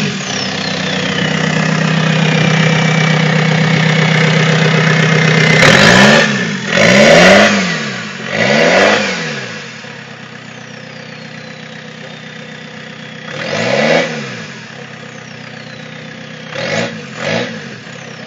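Vauxhall Astra DTi turbodiesel engine running with no exhaust fitted, held at high revs for about six seconds, then blipped sharply about five times, dropping back to a steady idle between blips. A falling turbo whistle winds down after the revs.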